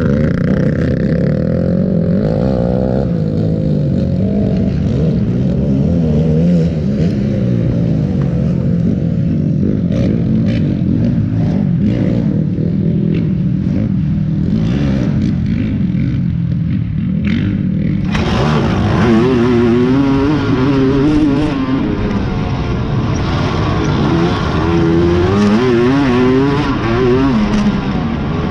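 Racing quad (ATV) engines running hard, the revs rising and falling as the throttle opens and closes, with scattered clicks in the middle. About two-thirds of the way in the sound turns suddenly louder and brighter, with quick swoops in pitch from hard revving.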